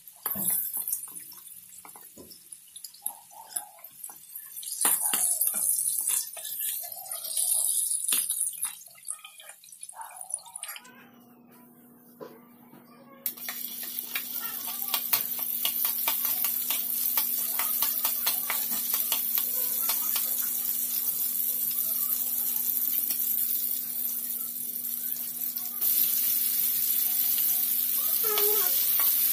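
Chopped garlic and ginger sizzling in hot oil in a wok: a steady hiss full of small crackles that starts about a third of the way in and grows louder near the end. Before it come irregular clattering, splashy noises and a short lull.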